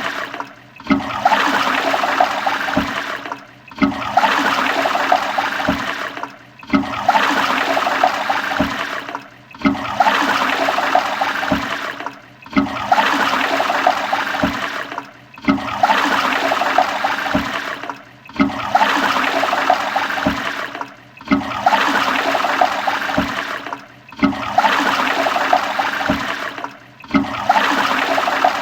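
Toilet flushing, looped: the same short flush of rushing water repeats about every three seconds. Each flush starts abruptly and fades off before a brief dip, about ten times in a row.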